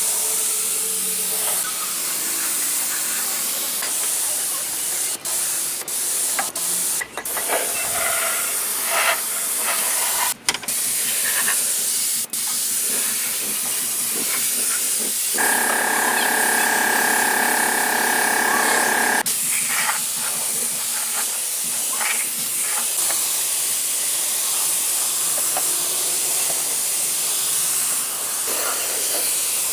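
Steady, loud hissing spray, like compressed air or a pressure jet, with a pitched mechanical whine for about four seconds in the middle.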